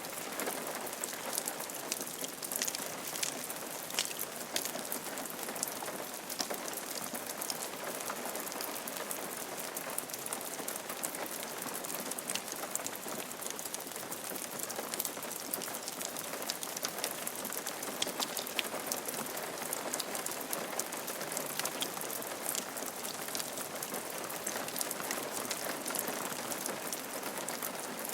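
Steady rain falling on a roof: an even hiss with many separate drops ticking through it.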